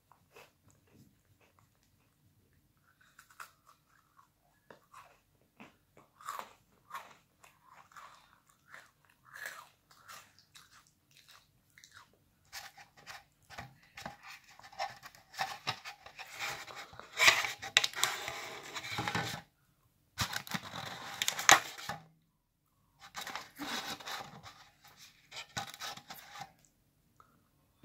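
Close-up crunching and chewing of Lotus biscuits, with scattered sharp crunches. From about halfway, louder stretches of crackling and rustling come in while a hand rummages in a plastic bowl.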